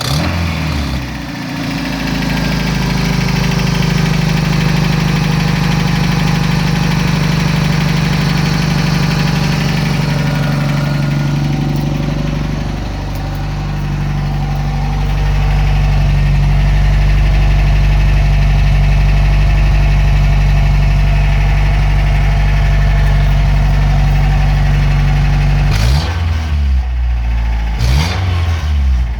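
1991 Toyota pickup truck's engine idling steadily, with two quick revs of the throttle near the end.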